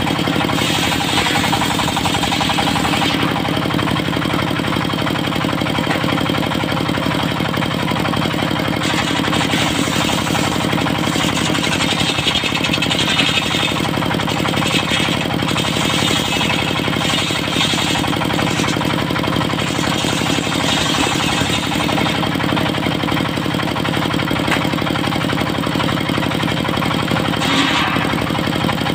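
Diesel engine of a mobile circular sawmill running steadily, driving the circular saw as it rips trembesi wood into boards; the sharper upper noise of the cut swells and eases several times.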